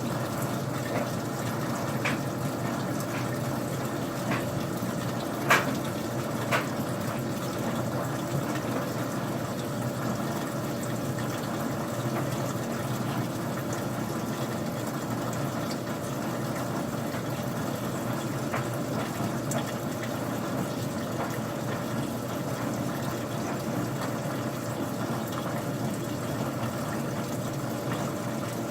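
Old-style front-loading washing machine running: a steady rush of water inside the machine, with a few sharp clicks, the loudest about five seconds in.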